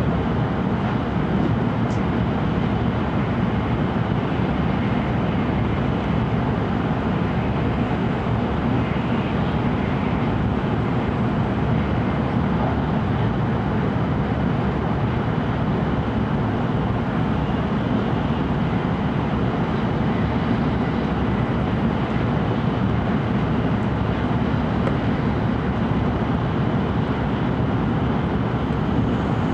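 Interior running noise of an E5 series Shinkansen train heard from inside the passenger car: a steady low rumble that holds at an even level throughout.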